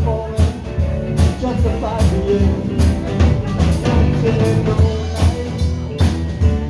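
Live band playing a rock song: drum kit keeping a steady beat over bass and electric guitar.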